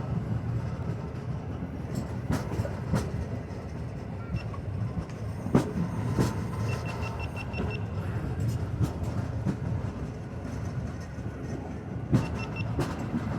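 Passenger train coach running on the track, heard from inside: a steady low rumble with irregular knocks and clicks from the wheels and carriage. A short run of high pips sounds about seven seconds in and again near the end.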